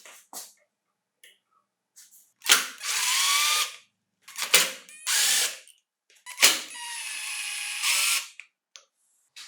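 A handheld electric power tool of the drill type run in three short bursts, each opening with a sharp click and a whine that climbs as the motor spins up. The last burst is the longest, nearly two seconds.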